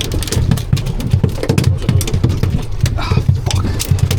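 Steady low rumble of a boat's motor and wind, with many quick knocks and slaps running through it.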